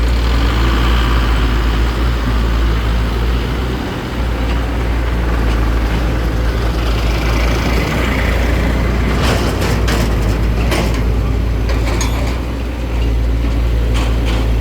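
Heavy diesel engine running steadily under load. A few sharp knocks or rattles come about nine to eleven seconds in.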